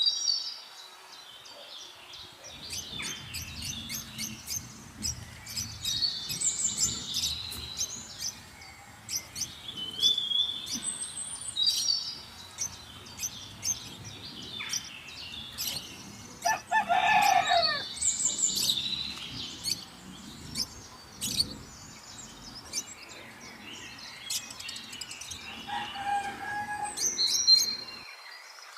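Several small birds chirping and singing, with repeated high calls and many sharp clicks. About seventeen seconds in comes one lower, drawn-out call.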